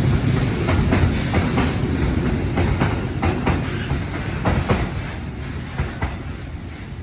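Container freight train rolling past, its wagon wheels clattering over rail joints in irregular clicks over a low rumble. The sound fades away over the last couple of seconds as the train draws off.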